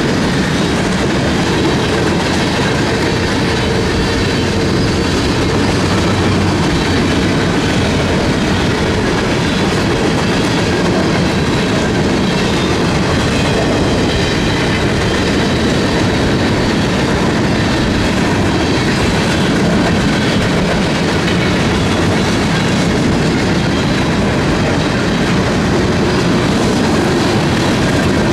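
Freight train rolling steadily past on the rails, its cars' wheels making a continuous loud rumble and clatter, with faint high wheel squeal.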